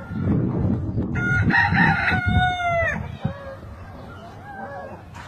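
A rooster crows once, starting about a second in and lasting about two seconds, its pitch falling at the end.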